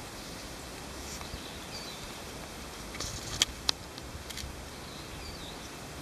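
A wild songbird calling faintly now and then, a few short high chirps over steady outdoor background noise, with two sharp clicks about halfway through, the loudest sounds here.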